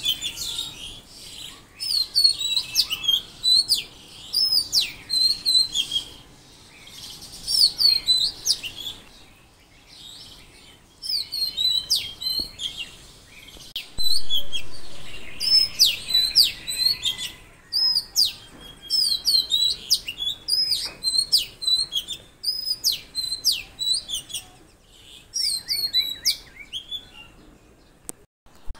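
Songbirds chirping in repeated bouts of quick high notes, each bout lasting a second or two with short pauses between.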